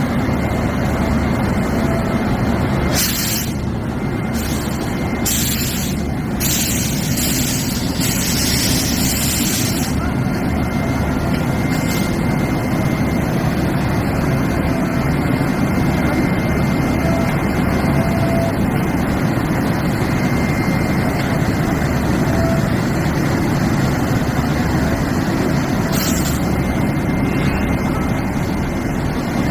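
Railway locomotive running with a steady low drone, with short hissing bursts of released compressed air a few seconds in and again near the end.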